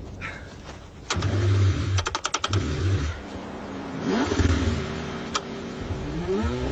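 Car engine being cranked in the cold, a low rumble coming in several bursts with a quick run of clicks about two seconds in, then rising revs near the end as the cold engine struggles to start.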